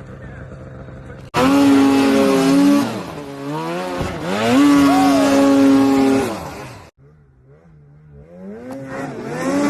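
Snowmobile engines revving hard, pitch rising and falling. The loud engine starts abruptly about a second in and cuts off suddenly near seven seconds. A quieter engine then climbs steadily in pitch.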